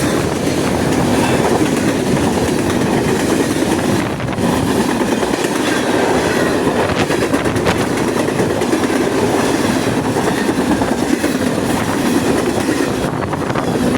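CN freight train rolling past at speed: a steady, loud rumble of passing cars with the wheels clacking over the rail joints.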